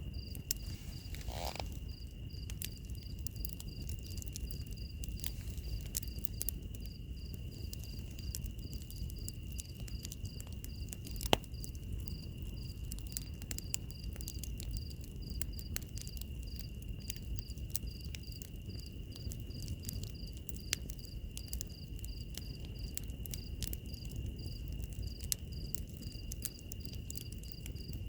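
Wood fire crackling, with scattered sharp pops (the loudest about eleven seconds in) over a low steady rumble. Insects chirp through it: one steady high trill and a second high chirp pulsing about three times a second.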